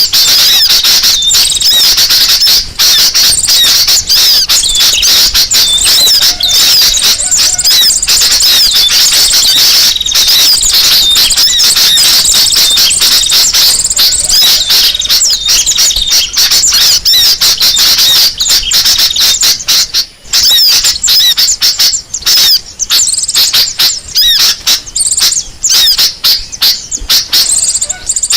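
Loud, dense chorus of small birds chattering and scolding, rapid high-pitched calls and trills overlapping without pause. It is a mixed-species bird-lure (pikat) recording of agitated, noisy birds, played to draw other birds in.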